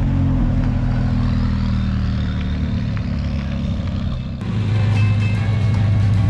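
A car engine running with a low, steady rumble. The sound changes abruptly about four and a half seconds in.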